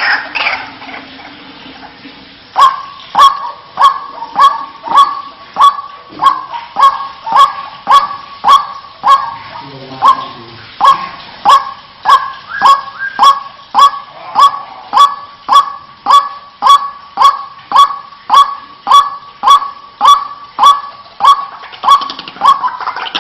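White-breasted waterhen (burung wak-wak) giving its repeated croaking 'wak' call, loud notes at about two a second in a long steady series starting a couple of seconds in. It is a bird-lure recording played to attract waterhens.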